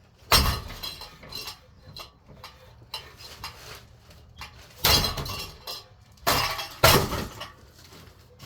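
A ceiling fan being struck hard four times, each blow a sharp crash followed by clattering and clinking as parts break and rattle. Lighter knocks and rattles come between the blows.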